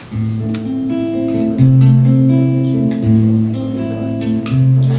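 Acoustic guitar playing a song's opening bars: picked chords over a bass note that changes about every second and a half.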